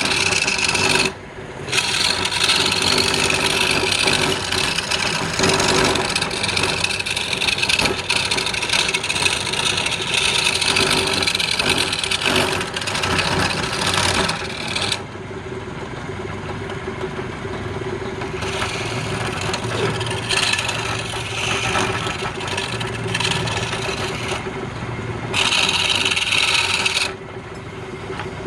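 Wood lathe running with a steady motor hum while a tool is held against the spinning wood, giving a loud scraping rasp. The rasp breaks off briefly about a second in, is lighter for stretches in the second half, and comes back strongly near the end.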